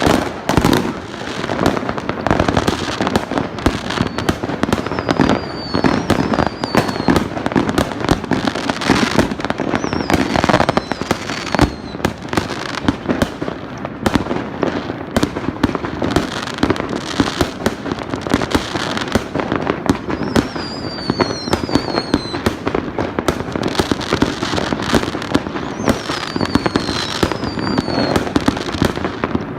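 Many fireworks going off at once: a dense, continuous barrage of bangs and crackles. Several high whistles glide downward in pitch, around four times across the barrage.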